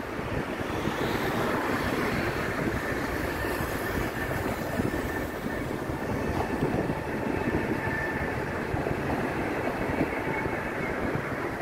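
Double-deck electric regional train rolling slowly past on the tracks, a steady rumble of wheels on rail. A faint high whine comes and goes partway through.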